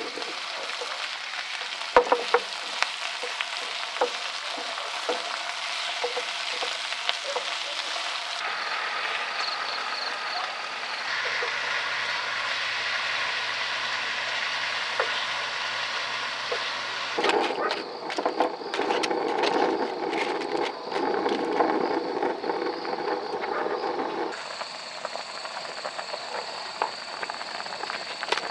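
Camp cooking sounds: food sizzling in a pan with a utensil clinking and scraping as it is stirred, in several short cuts.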